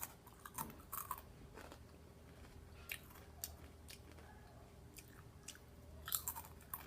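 Chewing and crunching ridged potato chips (Ruffles) close to the microphone: a string of short, crisp crackles.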